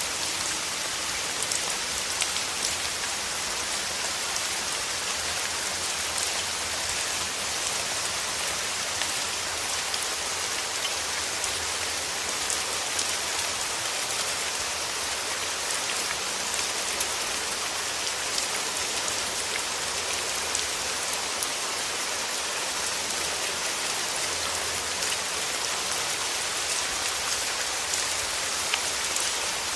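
Steady rain falling, with a constant hiss and many fine, close drop taps.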